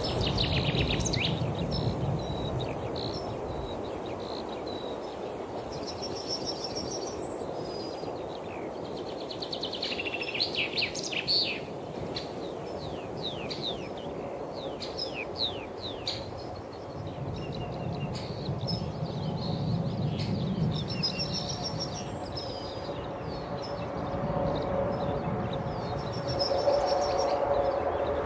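Wild birds singing and chirping over a steady outdoor background hum, with a dense flurry of quick calls about ten seconds in. A faint steady drone comes up in the second half.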